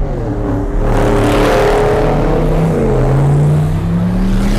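A car engine revving hard, its pitch dipping and then climbing, with a rush of tyre noise as it spins its wheels in a burnout.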